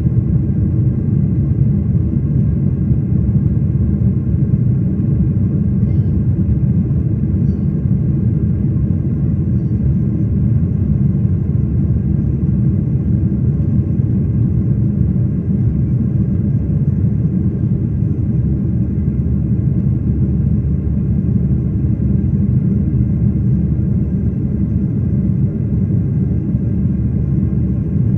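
Steady low rumble of an airliner's engines and airflow heard inside the passenger cabin, unchanging in level.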